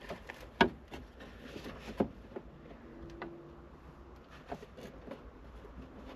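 A few sharp metallic clicks and knocks of a spanner working on the accelerator pedal's 12 mm bolts, the two loudest about half a second and two seconds in.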